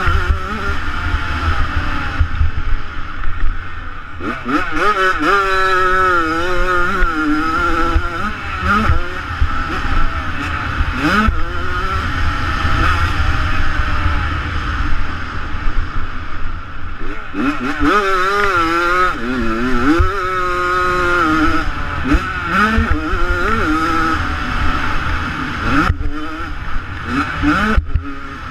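Two-stroke motocross bike engine revving hard and dropping off again and again as the bike is ridden around a track, its pitch swooping up and down, over a constant low rumble.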